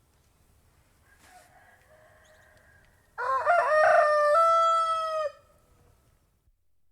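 A domestic rooster crowing once: a loud cock-a-doodle-doo that breaks in sharply about three seconds in and ends on a long held note, preceded by fainter calls from other birds.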